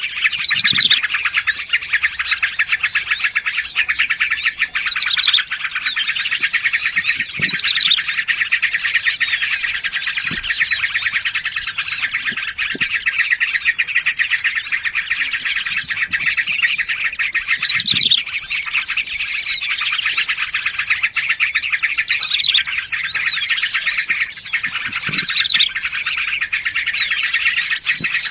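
Several small songbirds calling at once in a dense, unbroken chatter of chirps and fast trills, with a few low short notes now and then. It is a layered bird-trapping lure call mixing bulbul, prinia and other small forest birds.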